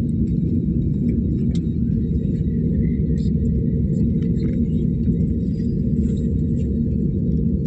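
Steady low rumble of a running engine, even throughout, with a few faint clicks.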